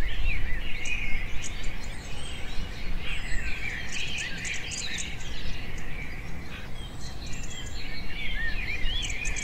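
Chorus of many small birds chirping and twittering, with overlapping short rising and falling calls, over a low steady background hum.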